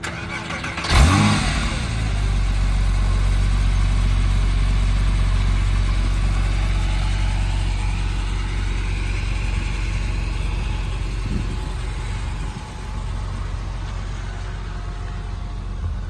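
2006 Porsche 911 Carrera's flat-six cranking on the starter and catching about a second in with a brief rising rev. It then holds a steady high cold-start idle. About twelve seconds in, the idle steps down and settles a little quieter.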